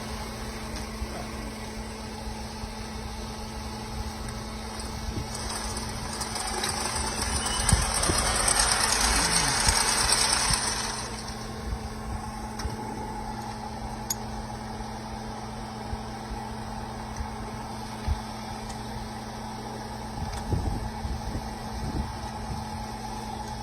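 Drilling rig machinery running with a steady engine hum. About five seconds in, a louder hissing noise swells, holds for about five seconds and dies away, with a few faint knocks later on.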